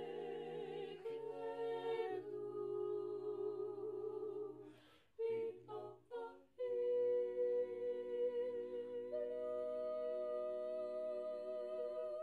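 A cappella choir singing slow sustained chords, with a brief break and a few short notes about five seconds in. Then the song's final chord is held, its top voice stepping up about nine seconds in.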